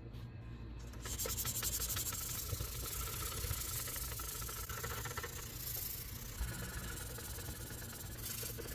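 A steady hiss that starts about a second in, over a constant low hum.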